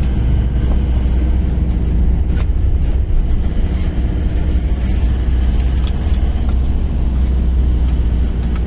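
Steady low rumble of a moving vehicle heard from inside the cabin: engine and road noise while driving at a constant pace, with a few faint ticks.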